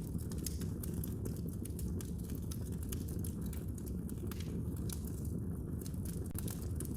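Fire in a fireplace crackling: many small irregular pops and snaps over a steady low rumble.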